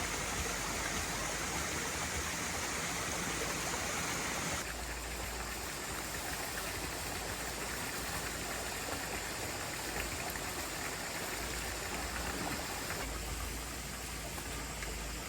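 Steady rushing noise of flowing water, with no distinct events, dropping a little in level about four and a half seconds in.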